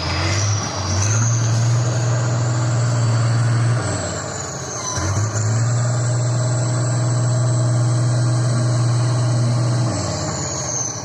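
Competition trial truck's engine running hard at steady revs, easing off briefly about four seconds in and again near the end, with a high whine that rises and falls above it.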